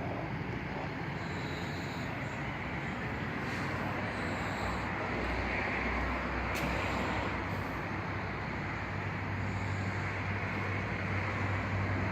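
Steady running noise of a car on the move: an even rush of road and engine noise over a low hum that strengthens about two thirds of the way through.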